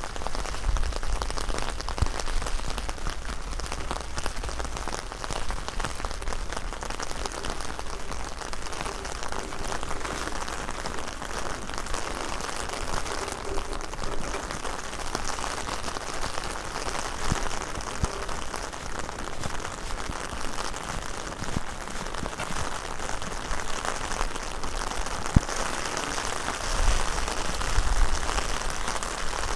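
Heavy rain falling steadily on a large umbrella held overhead, with gusts of wind rumbling on the microphone near the start and again near the end.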